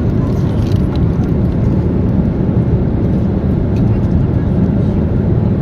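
Steady cabin noise of an airliner in flight: the low, even rush of engines and airflow heard from an economy-class seat.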